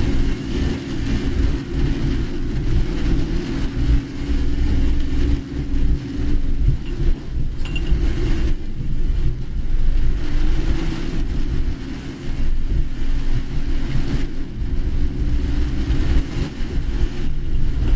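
A car driving, heard from inside the cabin: steady engine and road noise with a low hum.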